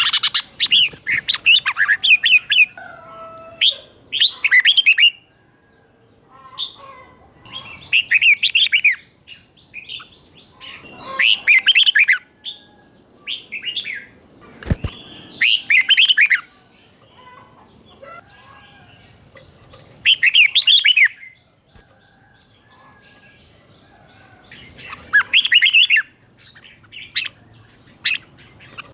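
Red-whiskered bulbul singing: loud, quick warbled phrases every few seconds, some sung in doubled pairs, with softer chirps between them. A single sharp click sounds about halfway through.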